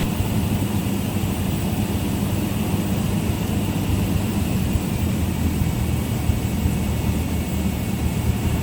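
Cessna 172's piston engine and propeller droning steadily in the cabin, with an even low hum and no change in pitch.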